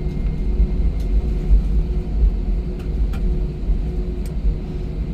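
Airliner cabin noise during taxi after landing: a steady low rumble with a faint engine hum and a few light clicks.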